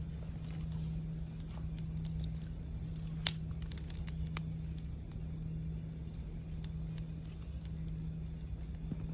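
Campfire crackling, with scattered sharp pops and snaps, the loudest about three seconds in, over a steady low hum.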